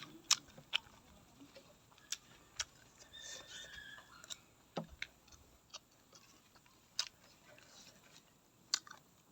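Close-up chewing and biting of raw vegetables: a string of sharp, crisp crunches at uneven gaps, about eight in all.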